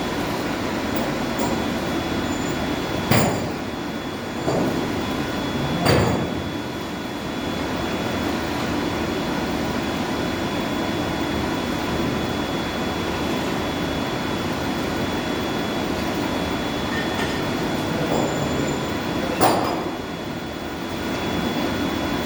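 Steady drone of boiler-house machinery running, with a few sharp metallic knocks, about 3, 6 and 19 seconds in.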